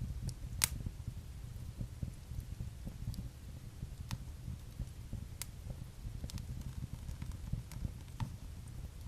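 Wood fire burning in a fireplace: a steady low rumble of the flames with scattered sharp crackles and pops, the loudest about half a second in.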